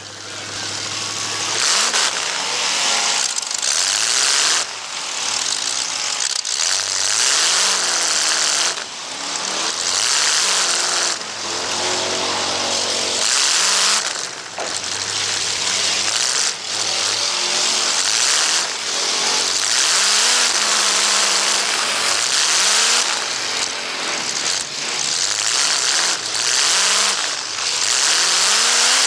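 Car engines revving hard, their pitch repeatedly rising and falling over a heavy wash of noise.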